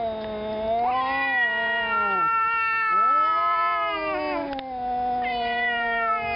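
Two domestic cats, a tabby and a black cat, yowling at each other face to face: long, wavering howls that rise and fall in pitch, one running into the next. It is the aggressive caterwauling of a cat standoff.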